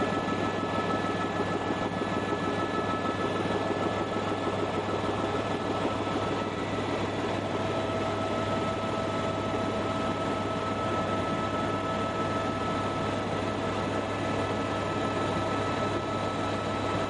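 Helicopter in flight heard from inside the cabin: a steady drone of engine and rotor with a constant high whine over it.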